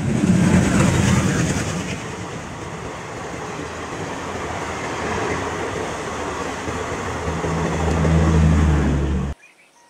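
Diesel-hauled passenger train passing at speed, with steady loud wheel-and-rail rushing noise from the coaches. The noise is loudest at the start; near the end a low steady drone swells, and then the sound cuts off suddenly.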